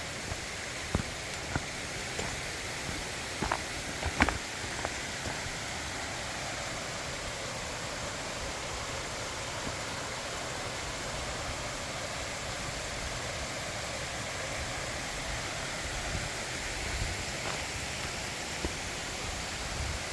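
Mountain valley stream rushing steadily over rocks, with a few sharp clicks in the first five seconds.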